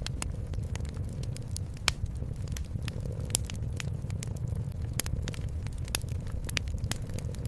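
Wood fire crackling, with irregular sharp pops, the loudest about two seconds in, over a steady low rumble.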